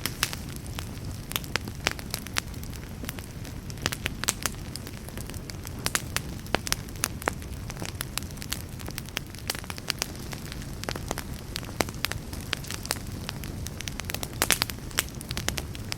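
Wood fire burning in a fireplace: a steady low rumble of the flames with frequent sharp crackles and pops, several a second, some louder snaps scattered through.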